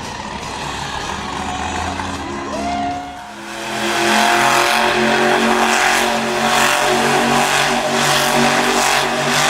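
Monster truck engine running, dipping briefly about three seconds in, then revving hard and staying loud at high throttle.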